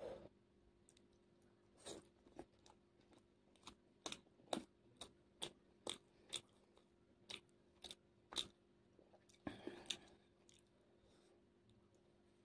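Close-miked chewing of steamed veg momos with lettuce salad: a run of sharp crunching clicks, one or two a second, then a longer chewing burst about ten seconds in.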